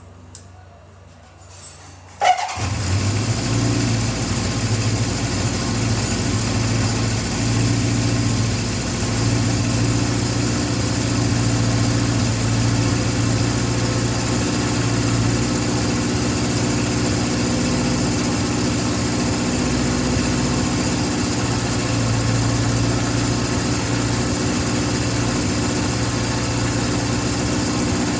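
Honda CB750 Four's air-cooled inline four-cylinder engine being started: a brief starter crank, then it catches about two and a half seconds in and settles into a steady idle.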